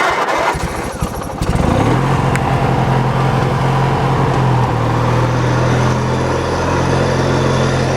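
Riding lawn tractor engine cranked by its starter for about a second and a half, then catching and settling into steady running at part throttle, cold.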